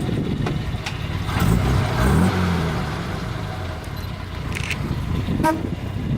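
Classic car engines running as cars drive past, one revving up about a second and a half in. A brief horn toot comes near the end.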